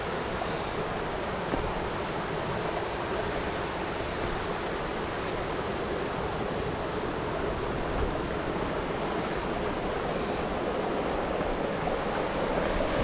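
Steady rush of water flowing over rocks in a mountain stream.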